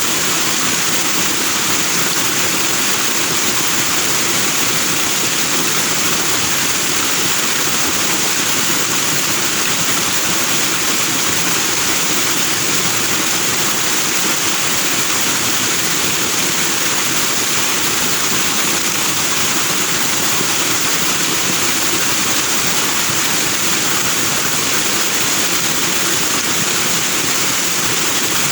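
A foaming stream of water rushing over rocks: a loud, steady rush with no breaks.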